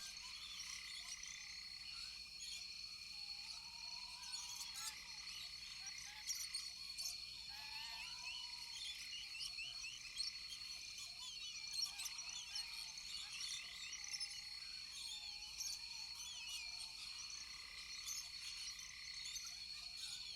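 Rainforest chorus of frogs and insects: a steady high-pitched trill runs under dense overlapping chirps, with short rising-and-falling calls repeating every second or two.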